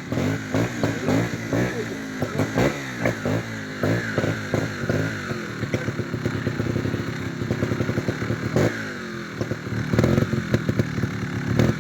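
Trials motorcycle engine revving in quick throttle blips, its pitch rising and falling again and again, with clattering knocks mixed in; the blips get louder near the end.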